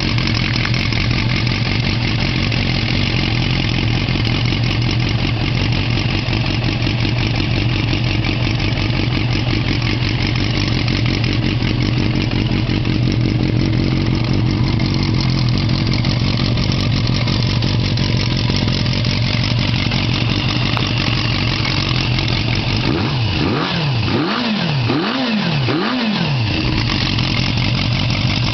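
A Suzuki GSX250S Katana's 250 cc inline-four, on FCR carburetors with a Yoshimura muffler, idling steadily. Near the end it is revved in about four quick throttle blips.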